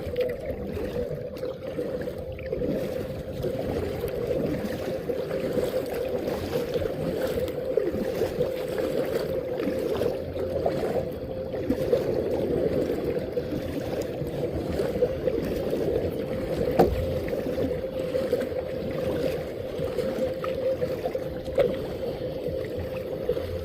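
Water moving against a kayak while it is on the water, a steady noise with a constant hum running through it.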